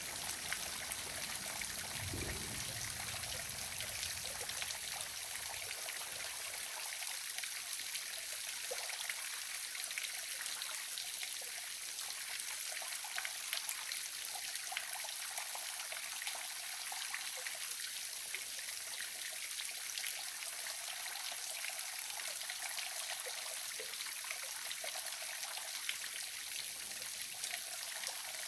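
Waterfall splashing and trickling steadily: an even rush of falling water with many small splashes, and a brief low thump about two seconds in.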